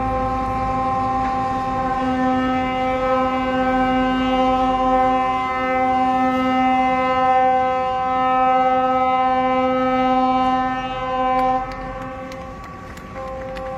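A large ship's horn sounding one long, steady blast of several tones together, which falls away near the end.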